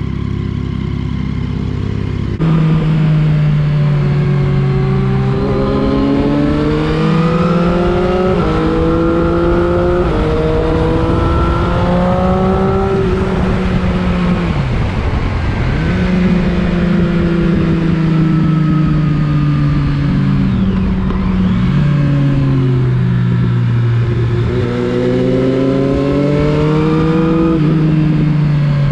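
Motorcycle engine accelerating hard through the gears: the pitch climbs, drops at each upshift and climbs again. It eases off twice and pulls through the gears again. For the first couple of seconds there is a steadier, lower engine note, which changes abruptly.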